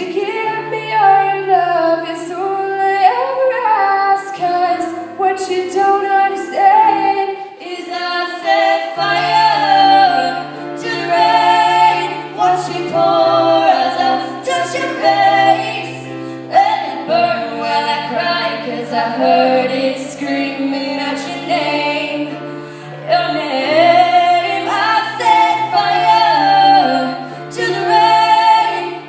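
Two female voices singing a pop song mash-up, in harmony, over sustained low notes.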